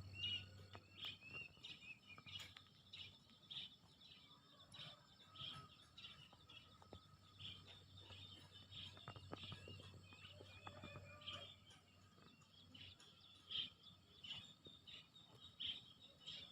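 Small birds chirping, a steady run of short, high, faint chirps repeating throughout.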